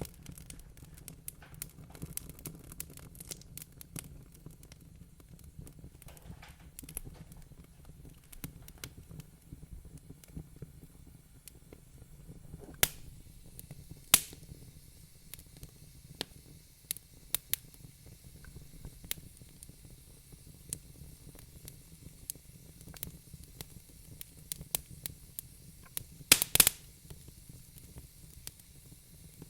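Wood fire crackling in a fireplace: irregular sharp pops and snaps over a low steady rumble and hiss. The loudest pops come about 13 and 14 seconds in, and a quick cluster comes near the end.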